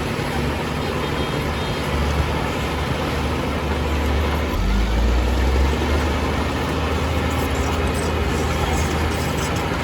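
Heavy diesel engine of earthmoving machinery running steadily with a deep rumble, rising briefly in strength about halfway through as if put under load.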